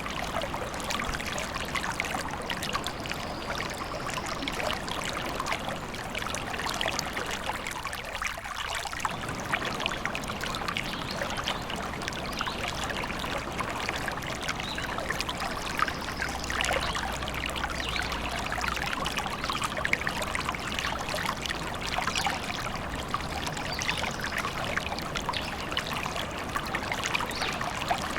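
A small stream trickling and babbling over stones, steady throughout.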